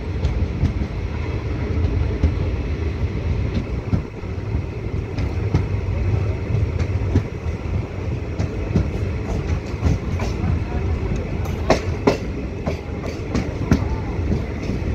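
Passenger train coach running along the rails, heard from aboard: a steady low rumble of the wheels with scattered clicks and clacks, and a few sharper knocks about three quarters of the way through.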